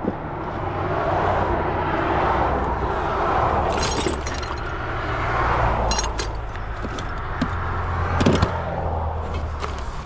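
Road traffic noise, with vehicles passing that swell and fade several times over a steady low engine hum. A few short sharp clicks and knocks come through, about four, six and eight seconds in.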